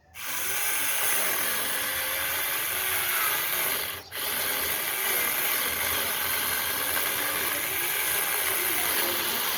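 Variable-speed angle grinder with a chainsaw attachment running and cutting, a dense chattering mechanical noise. It starts at once, dips for a moment about four seconds in, then carries on.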